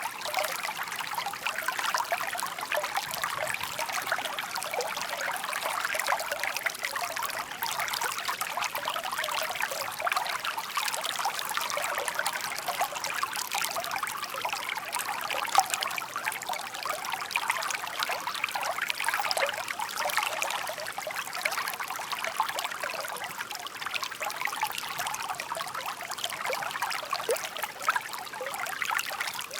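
Shallow stream babbling and trickling over stones, a steady bubbling splash with one slightly louder splash about halfway through.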